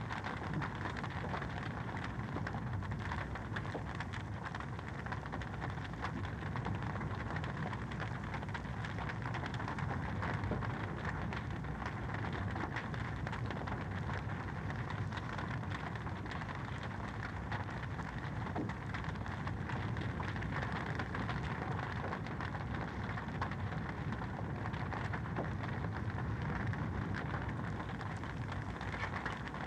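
Fire crackling steadily in a fireplace: a constant stream of small pops and snaps over an even low rush.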